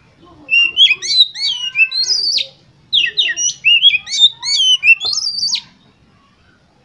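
Oriental magpie-robin singing: two bursts of varied, sweeping whistled notes, each a couple of seconds long, then it falls quiet near the end.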